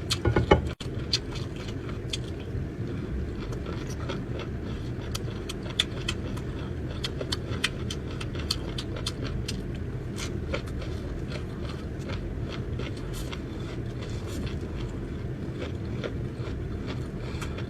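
Close-miked chewing of pickled kelp: many small, irregular crunching and wet clicking sounds over a steady low background hum.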